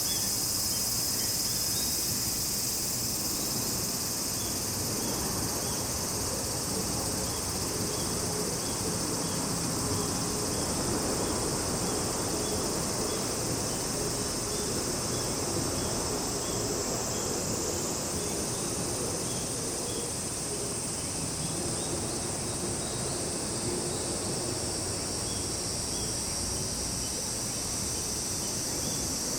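Chorus of summer insects: a dense, steady high-pitched shrill with short chirps repeating about once a second.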